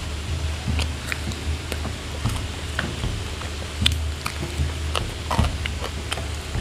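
Close-up chewing of crisp, dry-fried white-breasted waterhen: scattered sharp crunches and clicks as the small bones and crust are bitten, the loudest about four and five and a half seconds in, over a low steady rumble.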